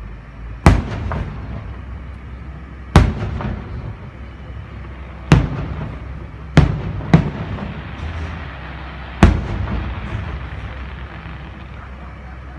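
Aerial fireworks shells bursting: six sharp bangs at uneven intervals, two of them close together in the middle, each followed by a rolling echo, over a steady low rumble.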